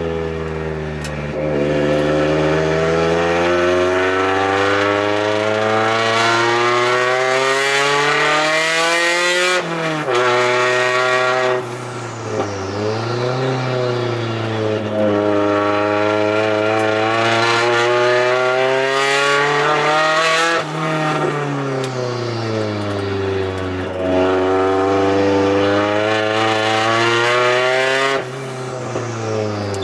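Car engine driven on a circuit, pulled up slowly through the revs for several seconds at a time, with its pitch dropping sharply three times as the driver shifts or lifts off.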